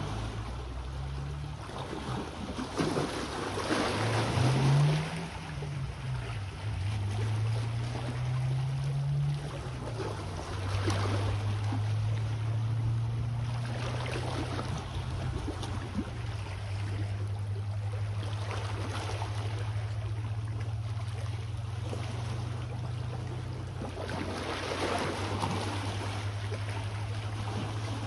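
Small waves washing onto the shore in surges every few seconds, over a steady low engine hum that wavers in pitch for the first ten seconds or so and then holds.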